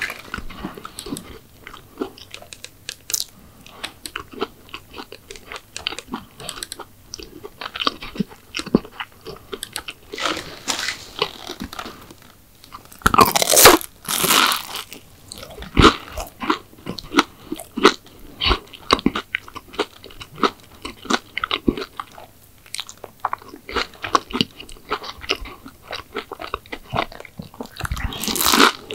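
Close-miked eating of crisp McDonald's sweets: a run of crunchy bites and chewing with small crackles throughout, the loudest crunches coming about halfway through and again near the end.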